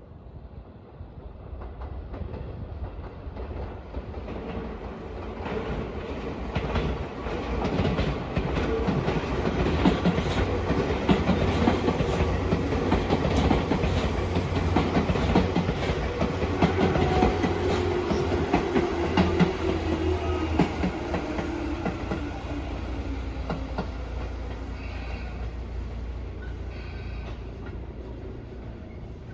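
Tobu Railway electric train passing, its noise swelling to a peak midway and then fading, with rapid wheel clatter over rail joints and a whine that falls in pitch as it goes.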